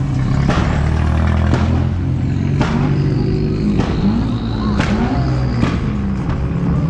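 Car engines running with a steady low rumble, and sharp cracks about once a second.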